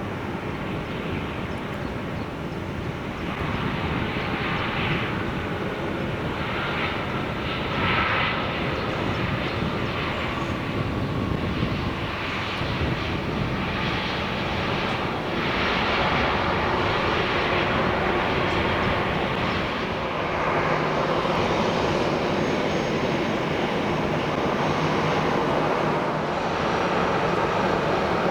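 Airbus A321 jet airliner's engines during its landing, a steady jet noise that grows louder about halfway through and then holds.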